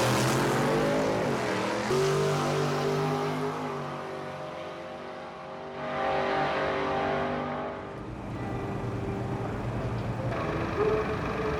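Drag-racing cars' engines running loudly at the strip, with the engine pitch shifting as they rev and the loudness rising and falling over several seconds.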